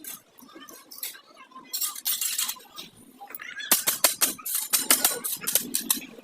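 Metal tools and parts being handled: a short rasping scrape about two seconds in, then a quick run of sharp clicks and clinks to the end.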